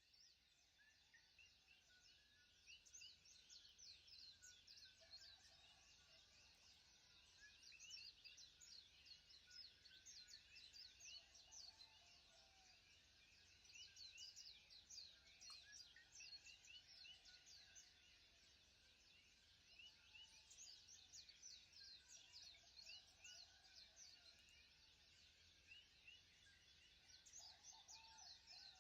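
Faint, dense chorus of many small birds chirping without pause, with an occasional lower warbling call.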